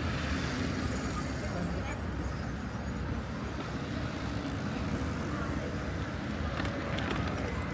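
Steady city road traffic: a continuous hum of passing cars and other vehicles along a busy street, with faint voices of passers-by.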